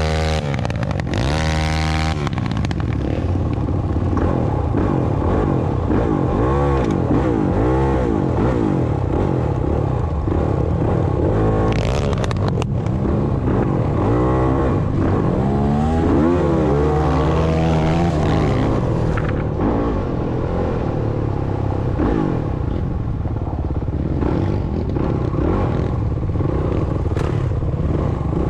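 Motocross bike engine running hard, its pitch rising and falling again and again as the throttle is opened and closed, with clattering throughout.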